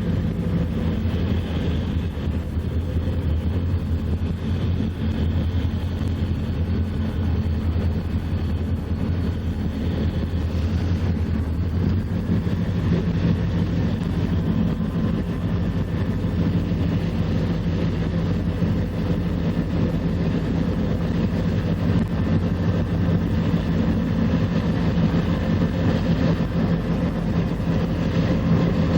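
Diesel locomotive engine running steadily with a low, even drone; its deepest tone drops away about halfway through.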